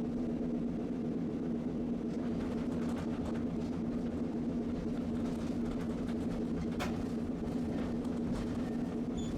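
Tosaden streetcar running along its line, a steady hum and rumble with one sharp click about seven seconds in.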